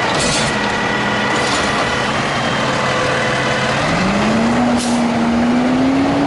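Garbage truck's diesel engine running steadily, then revving up about four seconds in and holding the higher speed, with a few short hisses of air.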